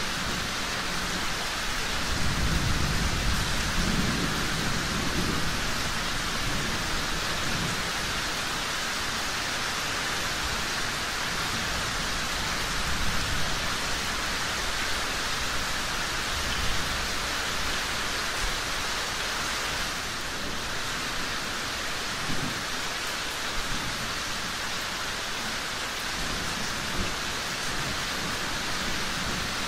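Steady rain, with a low rumble of thunder swelling about two seconds in and fading by about six seconds.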